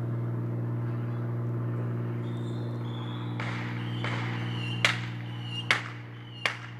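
Small firecrackers going off: a hiss starting about halfway through, then three sharp pops less than a second apart, over a steady low hum.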